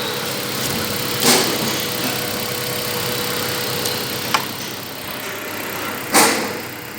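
Mazda 3's 1.6-litre Z6 four-cylinder petrol engine idling steadily, with a thin steady whine over the running and a few brief louder noises about a second in, past four seconds and about six seconds in.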